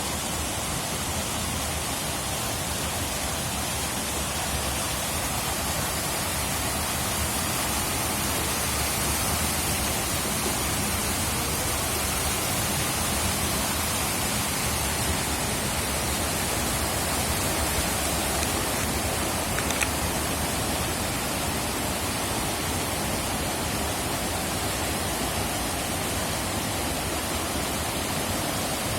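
Steady, unbroken rush of fast-flowing or falling water, with a small click about two-thirds of the way through.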